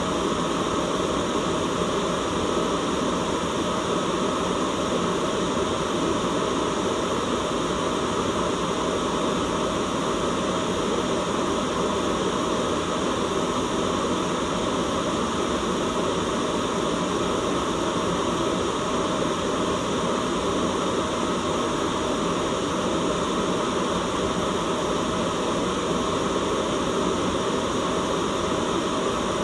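Continuous white noise, steady and unchanging, fuller in the low and middle range than in the highs.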